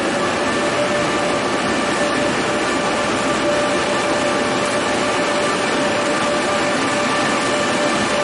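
Steady mechanical hum of railway equipment, with a few constant whining tones over a broad noise.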